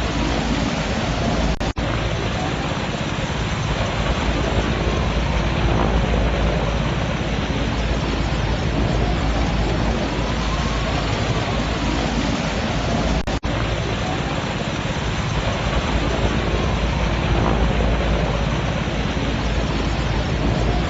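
Loud, steady rushing noise of a bushfire in strong wind. A faint tone glides up and down every few seconds behind it, and the sound drops out briefly twice.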